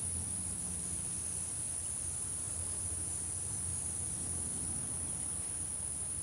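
Crickets trilling in a steady, unbroken high-pitched chorus, with a low hum underneath.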